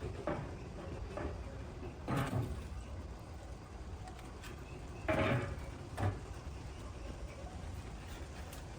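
A few scattered knocks and clunks over a low steady background, like objects being handled and set down in a workshop. The loudest come about two seconds in and again about five seconds in.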